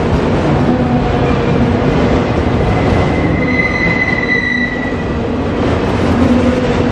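Freight train's autorack cars rolling past close by, with a steady rumble of steel wheels on rail. From about two and a half seconds in until about five seconds, a wheel gives a high, steady squeal.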